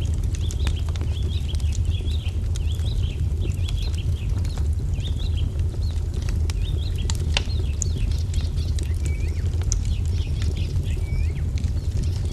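Wood fire crackling with sharp, irregular pops over a steady low rumble, while small songbirds chirp and twitter continuously, with a few short falling calls in the second half.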